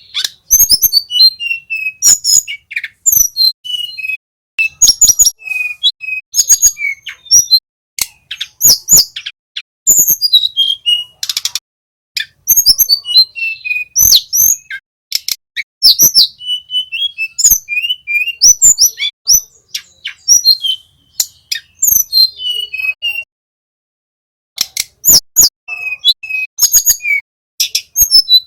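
Tledekan gunung, a small flycatcher, singing in quick high chirps and short warbled phrases, with sharp clicks mixed in and a brief pause near the end.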